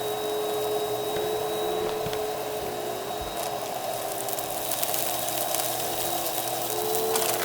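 Vacuum cleaner running with its brushroll on, a steady motor hum and whine whose pitch wavers slightly, with scattered crackles of dry debris being sucked up.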